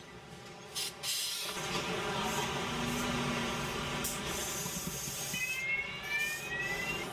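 Car-factory machinery running: a steady mechanical hum with many constant tones and a hiss, growing louder about a second and a half in. Near the end, a few rising whines.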